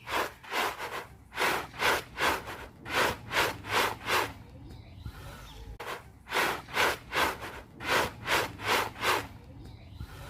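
Horse eating feed from a hand close to the microphone: rhythmic crunching chews, about two to three a second, in two runs with a short pause in the middle.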